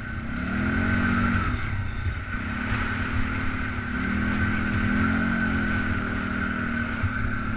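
Polaris Sportsman 500 ATV's single-cylinder four-stroke engine running while riding. Its pitch rises with throttle about half a second in and again around four seconds in, over a steady high whine.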